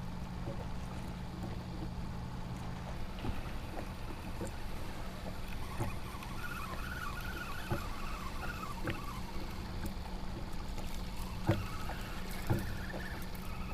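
Water lapping against a kayak hull, with scattered small knocks and a steady low hum underneath.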